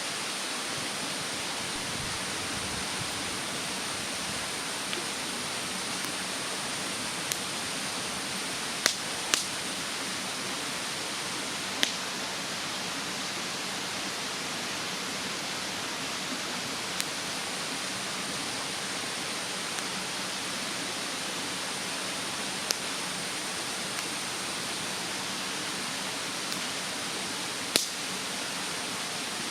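Wood bonfire in a fire stand burning, with sharp crackling pops scattered every few seconds, a few louder ones about a third of the way in and near the end, over a steady rushing hiss.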